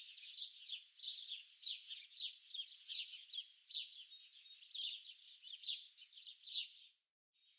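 Small birds chirping and twittering in a rapid stream of short, high-pitched notes. The sound cuts out to silence briefly near the end.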